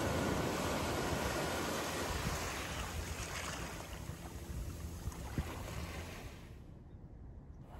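Ocean surf washing in as a steady rushing noise, fading out gradually over the second half.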